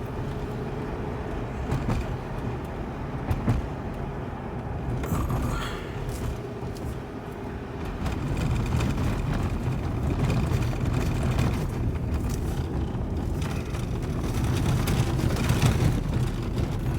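Car driving on the road: a steady low rumble of tyres and engine, with a few light knocks, growing a little louder about eight seconds in.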